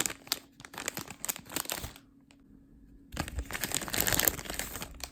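Plastic packaging crinkling as it is handled, in two spells with a quiet pause of about a second in the middle.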